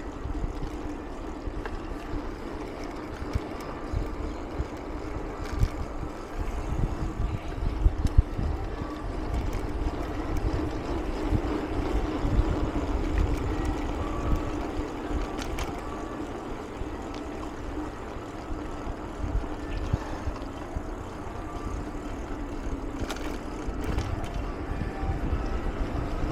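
Mountain bike riding: wind rumbling on the microphone over a steady hum from the rolling tyres, with occasional knocks and rattles.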